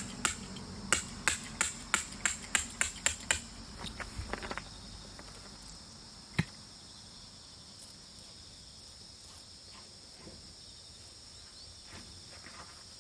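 A run of sharp knocks, about three a second, stops about three and a half seconds in, with one more knock a few seconds later. Under them insects trill steadily.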